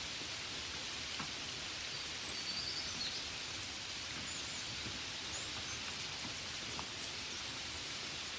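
Gentle steady rain, an even hiss with a few faint single drop ticks. A few faint high chirps sound about two to three seconds in.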